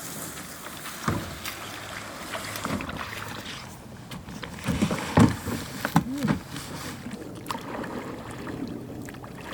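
Small rowboat being rowed across a pond: irregular splashing strokes of an oar, with a few knocks of wood against the hull, the loudest a little past the middle.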